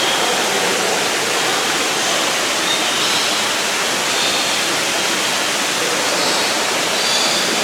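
Steady rushing of falling water, with faint high bird chirps now and then.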